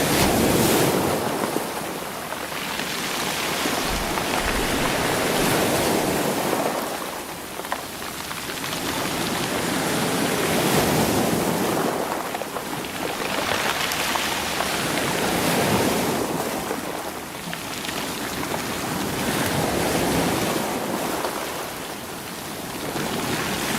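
Sea waves breaking and washing over rocks and stones, rolling them, in repeated swells about every five seconds.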